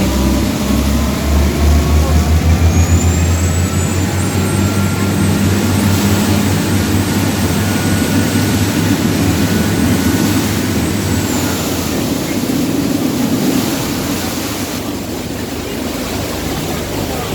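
Boat engine running under a steady rush of wind and water, with a pulsing low hum in the first few seconds and a thin high whine holding for several seconds in the middle.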